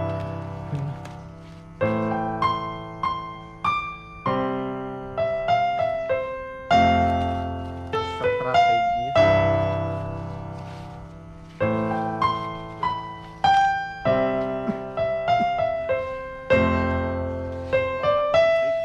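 Background piano music: gentle struck chords and melody notes, each dying away, in slow phrases.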